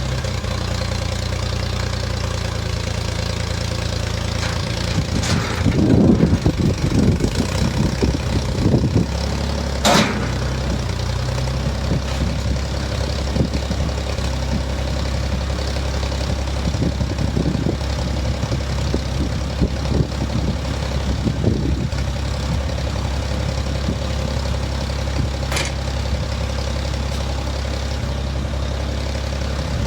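Old farm tractor engine running steadily at low speed, with rougher, louder stretches about six to nine seconds in. Two sharp knocks stand out, one about ten seconds in and one near the end.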